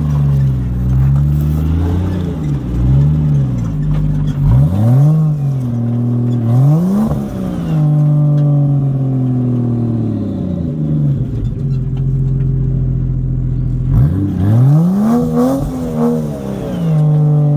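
Four-wheel-drive engine revving up and falling back in repeated bursts over a steady running drone, as the vehicle works its way up a rough off-road track.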